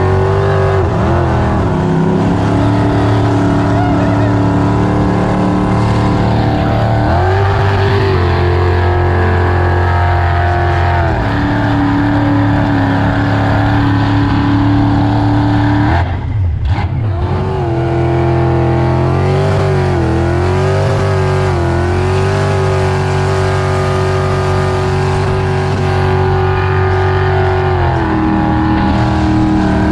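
Supercharged V8 boat engine running hard at a steady throttle, its pitch stepping up and down a few times and dropping briefly about sixteen seconds in.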